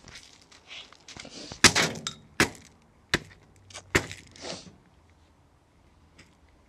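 Things being smashed: a handful of hard, sharp blows with a breaking, clattering rattle between them, the loudest about a second and a half in, dying away after about four seconds.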